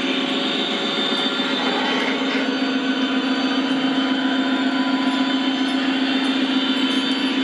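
O-scale model diesel locomotives running on the layout, their onboard sound system playing a steady diesel engine drone through small speakers, with the train rolling along the track.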